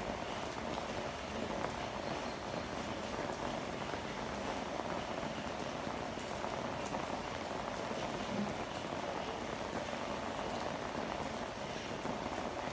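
Steady rain falling, with drops pattering and ticking on surfaces.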